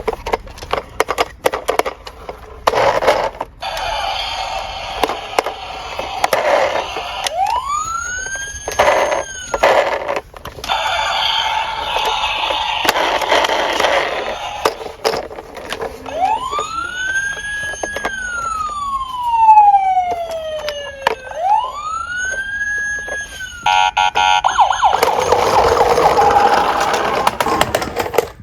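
Small toy cars clicking, knocking and rattling as they roll down a slope, with a police siren wail rising and falling twice midway, then a quick run of rapid pulses before more rattling.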